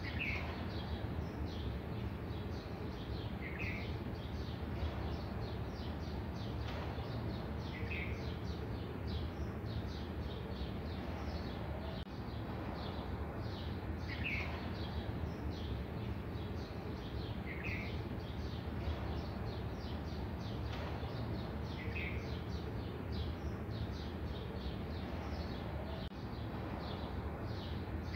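Birds chirping continuously in the background, with one bird's short call repeating about every four seconds, over a low steady rumble.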